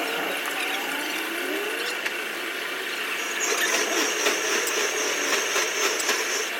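Mechanical clicking and rattling, with a steady high whine joining about halfway through.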